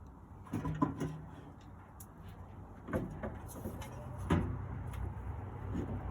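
Sheet-metal parts of a Camp Chef SG pellet smoker being handled and fitted back on, giving several sharp knocks and clanks over a low steady hum.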